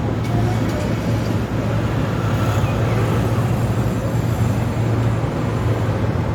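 Steady city traffic noise: a continuous low engine hum under the even rumble of passing vehicles.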